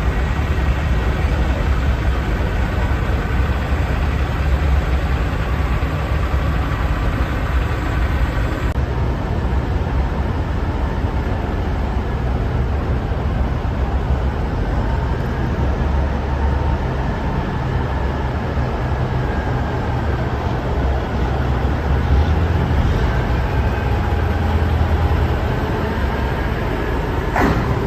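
Heavy vehicle engine running continuously with a deep rumble, its pitch drifting slowly. There is an abrupt change in tone about nine seconds in and a short sharp click near the end.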